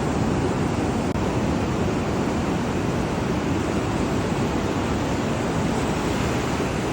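Ocean surf washing up on a sandy beach: a steady rushing noise without breaks.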